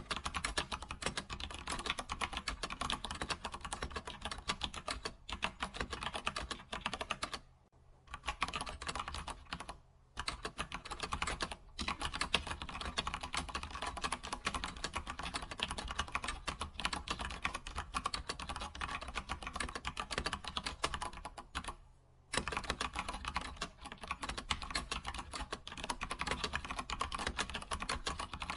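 Computer keyboard being typed on quickly and continuously, a dense stream of key clicks with a few short pauses, near 8 s, 10 s and 22 s in.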